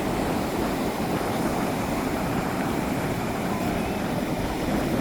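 Steady rushing roar of surf breaking along the shore, an even, continuous wash of noise.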